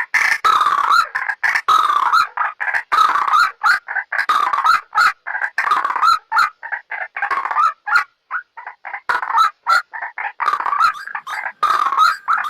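White-breasted waterhen calling, a recorded lure call: fast runs of short, harsh, repeated notes, broken by a brief pause about eight seconds in.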